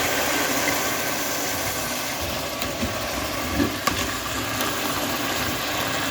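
Steady sizzling hiss from a hot pot of melted sugar and apples on the stove as wine is poured in, with a few light clinks about halfway through.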